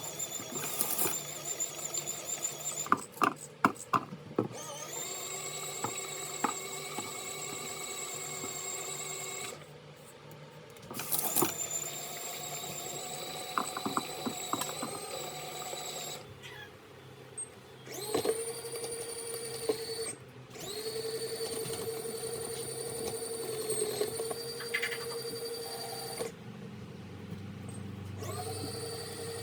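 Small electric motor of a mini washing machine running with a steady whine, stopping and restarting several times, the pitch sliding up briefly as it spins up. A few sharp clicks sound near the start.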